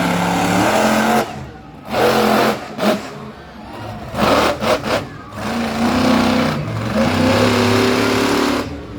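Monster truck engine revving hard in repeated bursts, the pitch rising and falling. It drops away briefly a little over a second in and again around three to four seconds in, with short sharp surges near the middle.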